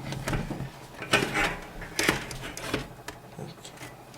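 Handling noise as an optical drive is fitted into a computer case's drive bay: a few short scrapes and knocks of the drive against the bay.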